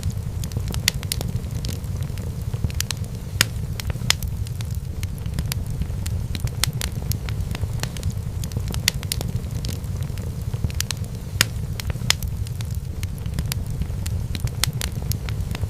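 Wood fire in a fireplace burning with a low steady rumble and frequent sharp, irregular crackles and pops.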